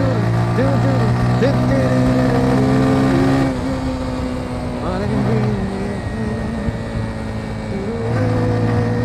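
Motorcycle engine running steadily under way, easing off about three and a half seconds in and pulling strongly again near the end, with a wavering higher tone over it.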